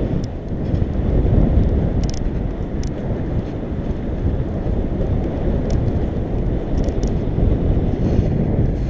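Steady low rumble of wind buffeting the microphone and bike noise while riding a mountain bike along a trail, with a few faint ticks.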